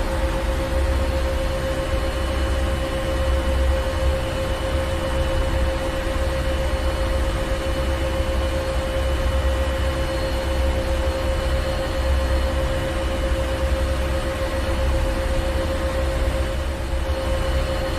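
Ship's engine room: heavy machinery running steadily, with a deep low rumble, a constant droning hum and a faint high whine over a dense hiss.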